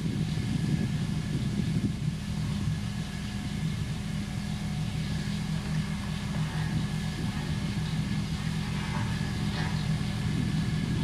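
Diesel engine of heavy road-building machinery, such as a motor grader or road roller, running steadily at low revs.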